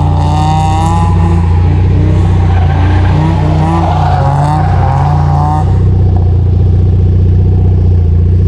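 A car engine running with a steady low drone. For roughly the first five and a half seconds a melodic voice sits over it, then only the engine remains.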